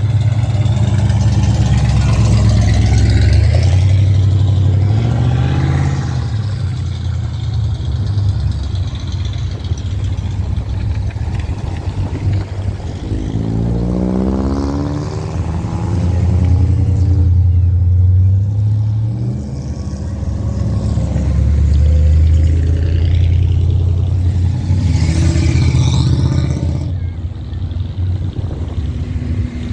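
Classic American cars' engines running as the cars drive slowly past one after another, a deep rumble that swells and fades with each car. About halfway through, one engine revs up, rising in pitch.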